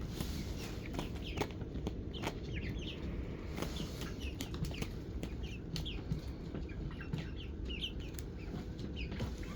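Flock of ten-week-old chickens peeping and clucking softly: many short, overlapping falling peeps, with a few light clicks.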